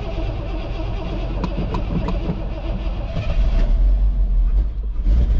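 Ford F-150's gasoline engine being cranked after sitting for weeks, firing with a louder surge of low rumble a little past halfway, over the steady rumble of a 7.3 diesel idling.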